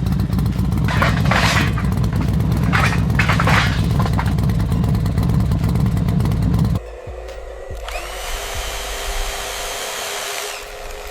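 A loud, low machine rumble with two short hissing bursts, stopping suddenly about seven seconds in. A quieter, steady high whir with a constant hum follows, like a drill or small motor running.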